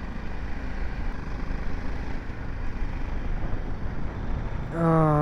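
BMW G 310 GS single-cylinder motorcycle on the move: a low engine rumble under steady wind and road noise on the microphone. A man's voice comes in near the end.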